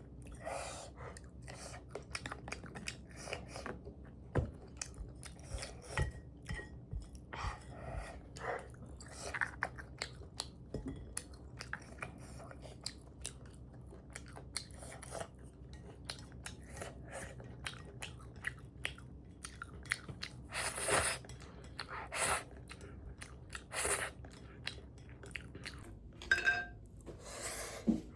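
Close-miked chewing and biting of spicy instant noodles, a steady run of small wet clicks and crunches, with a few louder, longer bursts about three-quarters of the way through.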